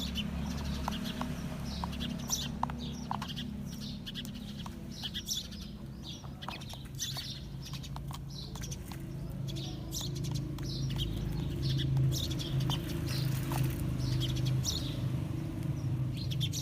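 Small birds chirping repeatedly over a steady low mechanical hum that shifts in pitch a few times and grows slightly louder in the second half.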